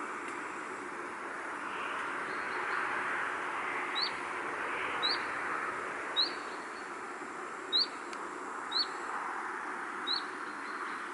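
A small bird repeating a short, high, upward-sliding chirp six times, about one every second or so, over a steady rushing background that swells and eases gently.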